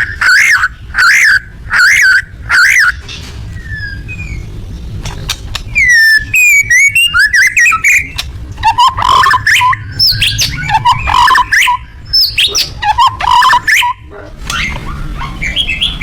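White-rumped shama (murai batu) singing loudly. It opens with about five repeated harsh notes, a little under a second apart, then runs into sweeping whistled glides and, from about halfway, loud, rapid, varied song phrases, dropping to softer notes near the end.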